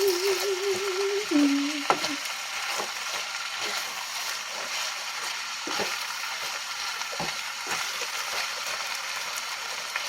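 Chard and garlic sizzling in oil in a frying pan, with occasional light taps of a utensil against the pan. A wavering hummed note sounds at the start and stops about two seconds in.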